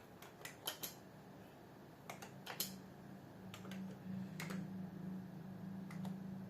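Keys being typed on a computer keyboard: irregular clicks in short runs, with a low steady hum underneath that grows louder about halfway through.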